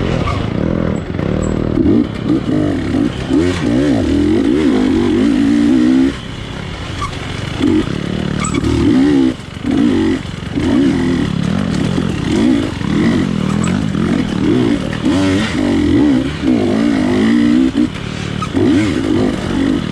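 GasGas 250cc dirt bike engine revving up and down in quick, repeated throttle bursts, with short lulls about six and nine and a half seconds in.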